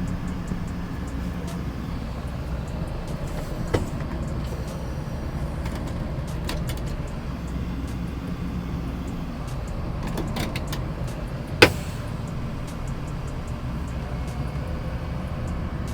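Tow truck running, a steady low engine and road rumble. There is a faint knock about four seconds in and a single sharp, loud knock or bang about three quarters of the way through.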